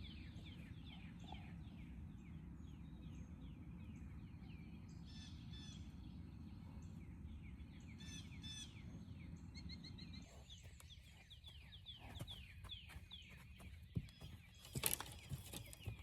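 Chickens clucking among birds chirping in quick repeated falling notes, over a low rumble that stops about ten seconds in. After that come scattered clicks and rustles, loudest near the end.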